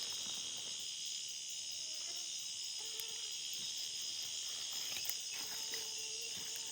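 Steady high-pitched chorus of night insects in the Amazon rainforest, with a faint low tone twice.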